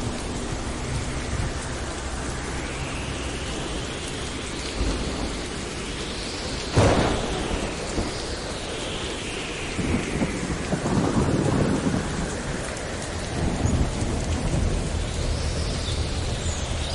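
Thunderstorm: steady rain with a sharp crack of thunder about seven seconds in, followed by longer rolling rumbles.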